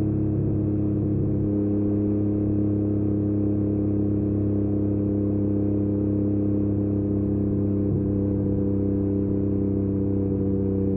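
Yamaha MT-09 three-cylinder engine through an Akrapovic exhaust, running at steady revs with an even, unchanging pitch.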